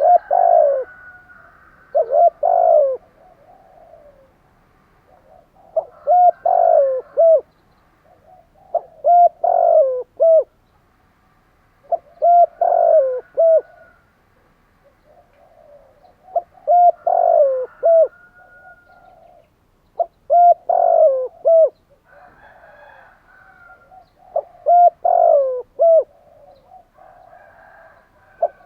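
Spotted dove cooing: a short phrase of a few falling coo notes, repeated every three to four seconds.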